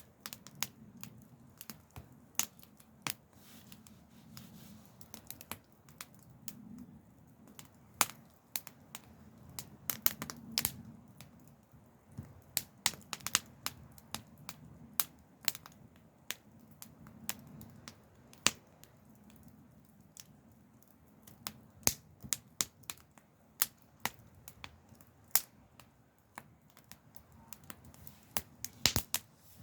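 Campfire burning, with wood crackling in irregular sharp pops and snaps over a soft low rush.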